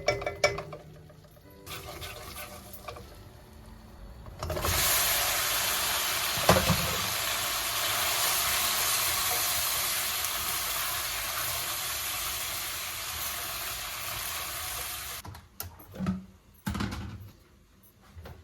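Water running from a tap for about ten seconds, switched on and off abruptly, with a few short knocks before and after.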